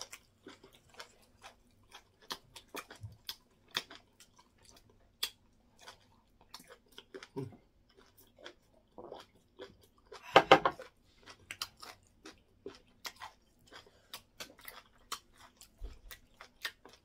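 Close-miked wet chewing and lip smacks of people eating semolina fufu and egusi soup, heard as many small irregular clicks, with one louder mouth sound about ten seconds in.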